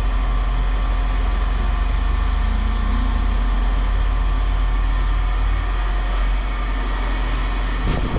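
An engine running steadily at idle: a constant low hum with steady tones above it.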